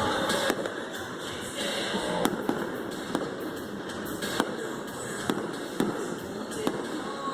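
Fireworks display going off: sharp bangs and pops every second or so over a steady background of crowd noise.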